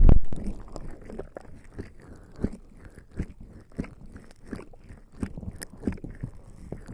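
Bare skin slick with lubricating jelly rubbing and pressing on a microphone, giving irregular sticky crackles and taps, with a heavy thump at the very start.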